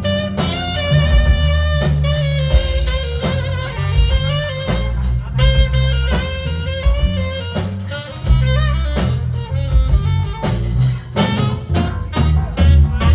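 A band playing a funky jazz groove: a saxophone carries a wavering melodic line over electric bass and a drum kit.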